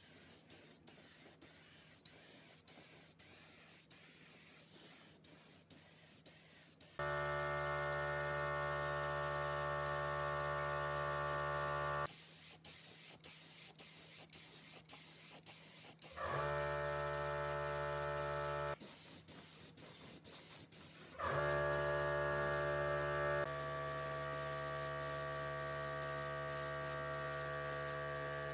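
An electric motor hums steadily, switched on about seven seconds in, stopped and started again twice, running on through the end. Before it first starts there are only faint, light ticks.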